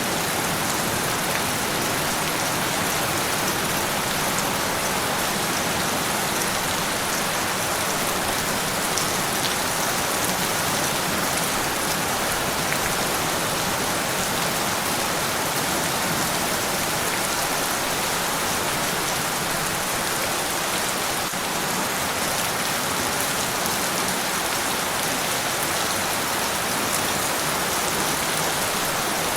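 Steady, even rain falling and pattering on surfaces, with no thunder or other distinct events.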